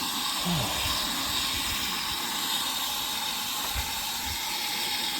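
Garden hose shower nozzle on a light setting spraying water in a steady hiss.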